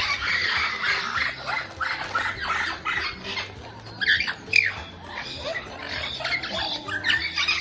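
Many caged birds chirping and squawking at once in a dense, overlapping chatter, with a couple of louder squawks a little past the middle.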